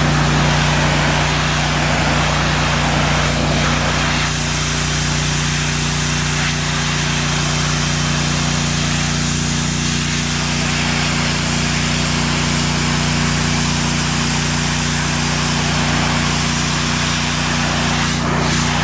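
Gas-engine pressure washer running steadily with its high-pressure water spray hissing against pavement; the spray stops right at the end while the engine keeps running.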